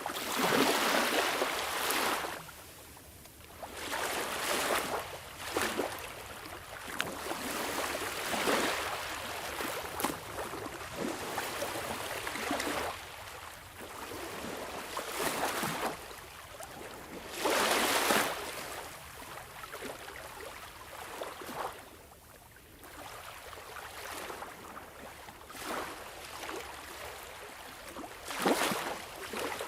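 Sea waves washing in and breaking, a steady rush of water that swells and ebbs irregularly every few seconds, with the biggest surges at the start, a little over halfway through and near the end.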